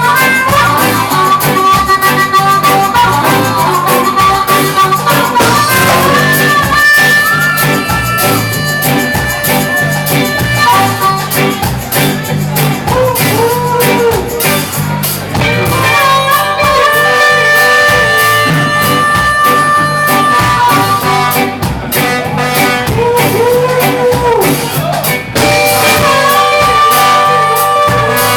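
Live band playing an instrumental break: a lead instrument plays long held notes, some bending up and down, over guitar, bass and drums.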